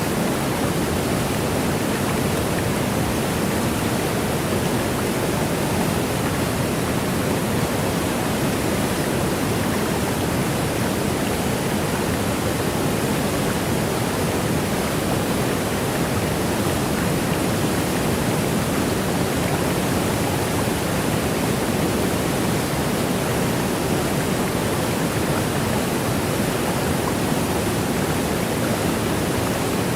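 Steady rushing water of a waterfall, an unbroken even noise with most of its weight in the low and middle range.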